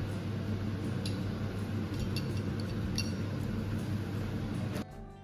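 A few light clinks of dishes and cutlery over a steady kitchen hum, cut off suddenly near the end by soft guitar music.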